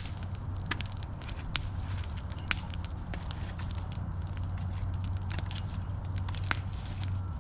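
Big wood bonfire burning with a low steady rumble and a few sharp pops scattered through it.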